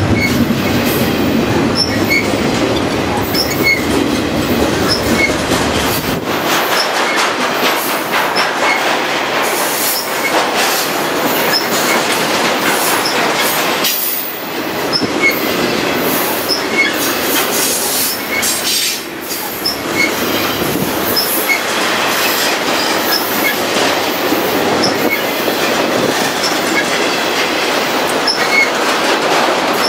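Freight cars of a BNSF intermodal train rolling past close by: a steady, loud noise of wheels on rail, with short high wheel squeals dotted through it. The low rumble is heavier for the first six seconds, then thins out.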